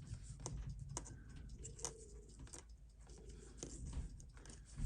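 Faint scattered clicks and light scraping of a small screwdriver and tweezers against a Seiko 6138 watch movement, as its screws are backed out and lifted away.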